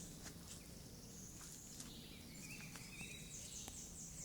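Faint woodland ambience of wild animal calls: series of short high-pitched chirps repeated several times a second, with short warbling calls between them. Scattered light clicks throughout.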